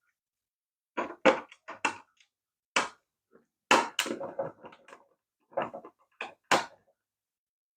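Irregular clicks and knocks of small hard plastic parts being handled during hand disassembly of a Project MC2 H2O toy RC car, about a dozen sharp taps in small clusters.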